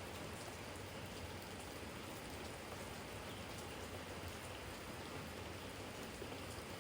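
Steady spring rain falling in a garden yard and onto a garden jar: an even hiss of rain with faint, scattered drop ticks.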